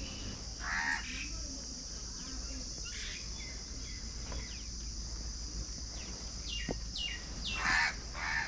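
Birds calling: a few harsh calls about a second in, around three seconds and near the end, with several short, quick falling chirps from another bird just before the end, over a steady high hiss.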